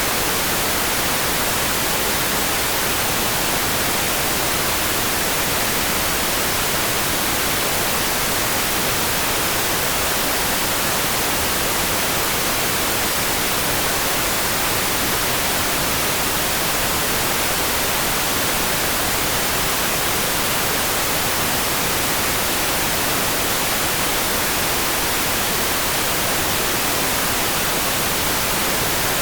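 Steady rain, a loud, even, unbroken hiss strongest in the high end, with no separate drops, thunder or changes.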